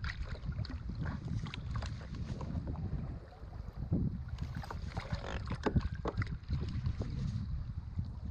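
Wind buffeting the microphone over water against a kayak, with scattered small knocks and clicks.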